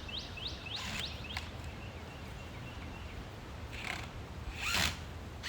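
A songbird singing a quick run of about five whistled notes, each sweeping downward, in the first second, followed by faint softer notes. Two short rustling noises come near the end.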